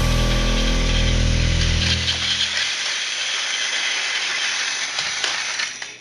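Music ends about two and a half seconds in, leaving the steady whir of a Plarail toy train's small battery motor running, with a few light clicks, until it fades out near the end.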